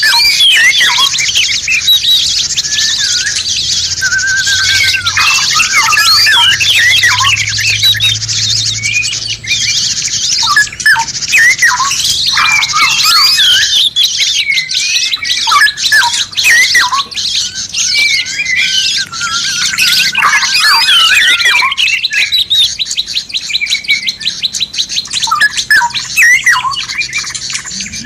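Several songbirds calling over one another in a dense, unbroken chorus of quick chirps, whistles and squawks, over a steady high hiss.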